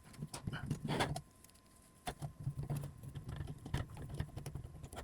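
Scattered light clicks and taps of small hardware being handled and fitted: M3 bolts and standoffs going onto a 3D-printed robot chassis plate.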